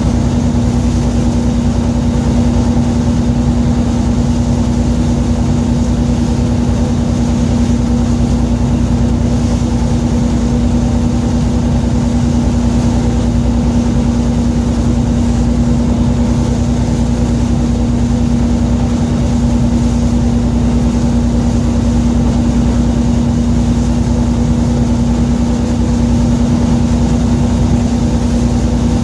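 Fishing boat's engine running steadily: a loud, even drone with one strong held tone over a low rumble, unchanging throughout.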